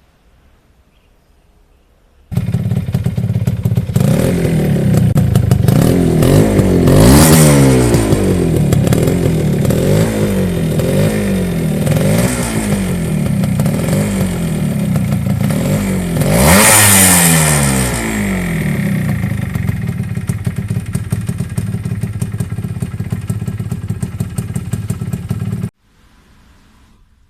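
TVS Shogun's small two-stroke single-cylinder engine being revved again and again, the pitch falling back after each blip, with two bigger revs, then running more steadily. It comes in suddenly about two seconds in and cuts off abruptly near the end.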